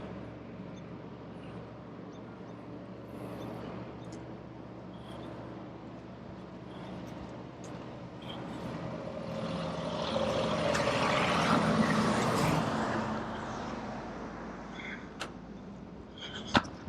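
Steady low engine hum, with a vehicle passing on the highway, rising and fading over about five seconds midway. A few sharp clicks come near the end.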